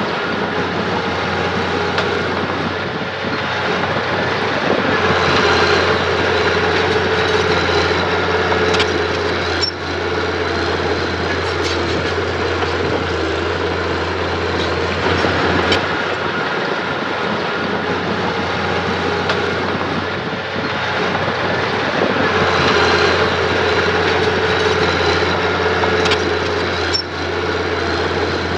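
Diesel engine of heavy earthmoving machinery running steadily, growing louder for a few seconds twice.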